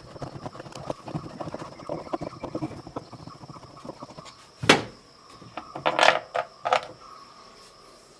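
Screwdriver unscrewing the screw that holds a semi-automatic washing machine's pulsator wheel: rapid small scraping clicks for about four and a half seconds, then a sharp knock and a few quick clacks a second or so later.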